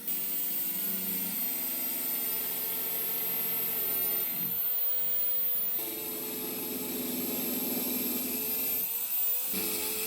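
Angle grinder grinding the heads off seized, stripped door hinge screws, a steady machine whine with two short let-ups.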